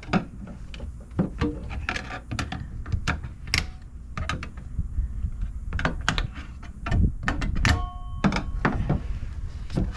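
Trim retaining clips and panels being pried up and handled: irregular sharp clicks, knocks and thunks, with a brief ringing tone about eight seconds in.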